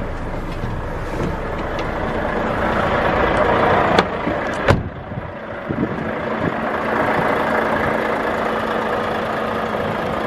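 Volvo FH500's 13-litre inline-six diesel engine running, growing louder up to about four seconds in, with two sharp clicks half a second apart, then settling back to a steady run.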